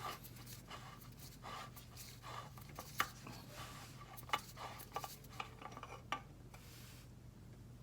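Light clicks, taps and rubbing from hands working the cartridge oil filter housing cap and its parts, with a couple of sharper clicks about three and four seconds in, over a faint steady low hum.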